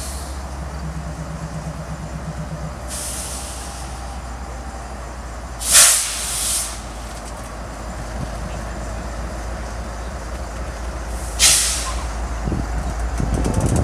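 BNSF diesel locomotives pulling a ballast train at slow speed, with a steady low engine rumble, while the air brakes let out sharp hisses three times: a softer one about three seconds in and loud ones about six and eleven seconds in, as the train brakes to a stop.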